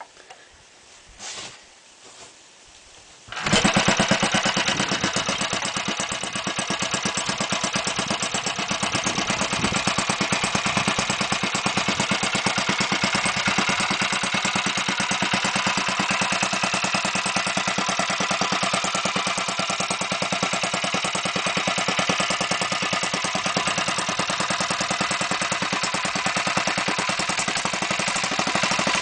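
Restored Bernard type 318.a single-cylinder cement-mixer engine catching suddenly about three and a half seconds in, after a few faint clicks, then running steadily with a rapid, even firing beat.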